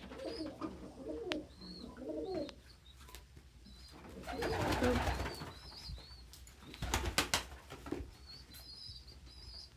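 Domestic pigeons cooing for the first couple of seconds, with short high peeps repeating throughout. There is a brief rustling flurry about halfway through and a few sharp clatters a couple of seconds later.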